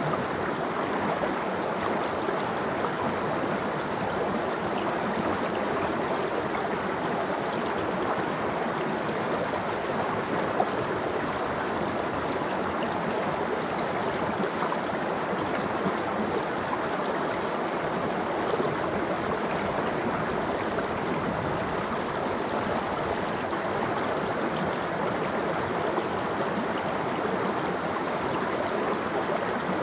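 Mountain stream of cold, icy water flowing steadily over rocks, a continuous even rush and gurgle.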